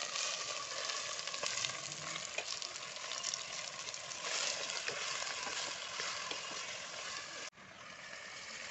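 Raw chicken pieces sizzling in hot oil in a clay pot, stirred with a steel ladle. The sizzle drops sharply in level about seven and a half seconds in, then carries on more quietly.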